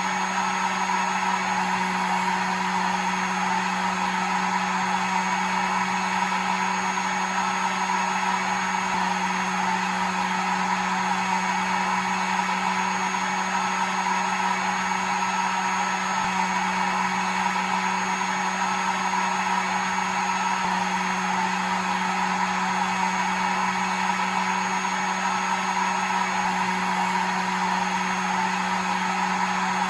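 Electric hair dryer running continuously: a steady motor hum under an even rush of blown air, with no change in pitch or level, used as soothing white noise to lull a baby to sleep.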